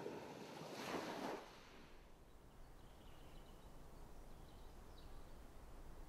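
Ocean surf: a wave washes in and dies away about a second and a half in. It is followed by quiet outdoor ambience with a few faint high chirps.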